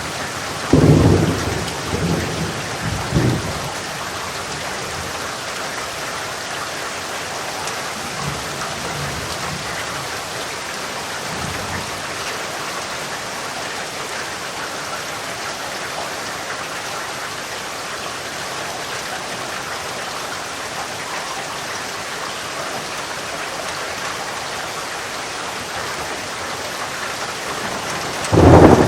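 Steady rain with thunder. A loud rumble comes about a second in and rolls on for a couple of seconds, fainter rumbles follow around the middle, and another loud thunderclap comes near the end.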